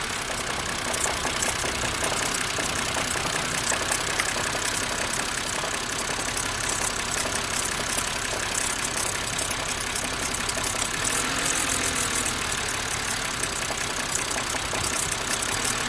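BMW E90's six-cylinder engine idling steadily, with the rough idle that comes from a failing ignition coil. It is running during a coil-by-coil test, with one coil being unplugged to check for a drop in engine speed.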